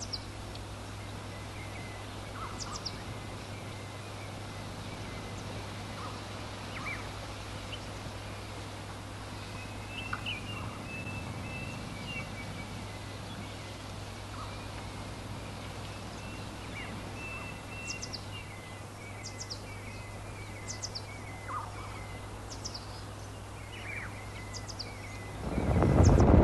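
Small birds chirping and calling, with scattered short high chirps and a wavering trill, over a steady low hum. A sudden loud rushing noise starts near the end.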